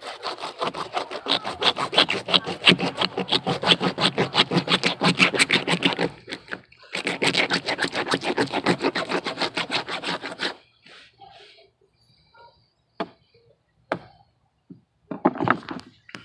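A blade sawing through a snakehead fish's neck with fast back-and-forth rasping strokes, several a second, in two long runs with a short pause between them. A few scattered knocks and clicks follow near the end.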